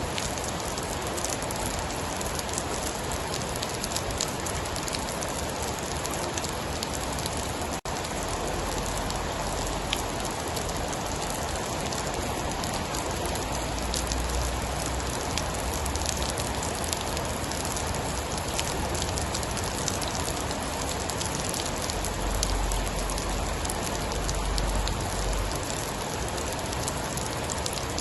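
Steady heavy rainfall, a dense even hiss sprinkled with fine drop clicks, with low rumbles swelling up a few times. The sound cuts out for an instant about eight seconds in.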